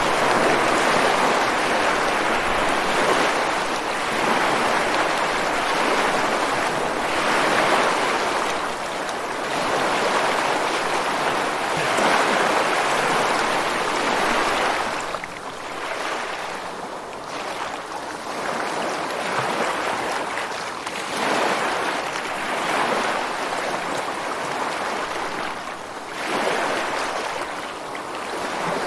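Ocean surf washing ashore and over rocks: a continuous rush of water that swells and eases every few seconds, a little quieter in the second half.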